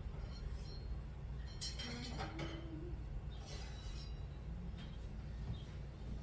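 A knife and kitchen utensils being handled, clinking sharply about two seconds in and again near four seconds, over a steady low hum.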